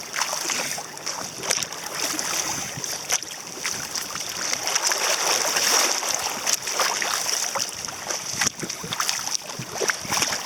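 Water washing and slapping against a sailing kayak's hull as it moves through choppy waves, with many small sharp splashes over a steady hiss of wind.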